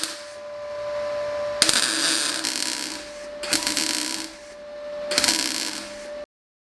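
Power tool running with a steady whine, with three bursts of harsh abrasive noise as it bites into the work, before the sound cuts off abruptly.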